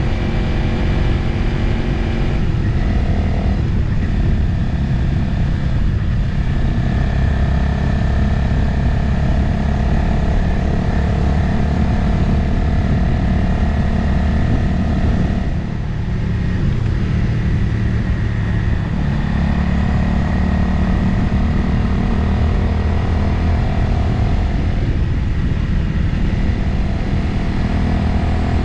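Motorcycle engine running under way, heard from the rider's position with wind noise. The engine note shifts several times and dips briefly about halfway before picking up again.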